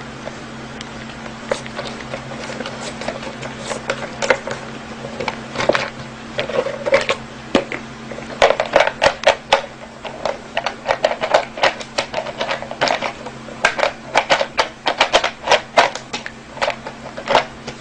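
Quick, irregular clicks and taps, several a second at their busiest and thicker in the second half, over a steady low electrical hum.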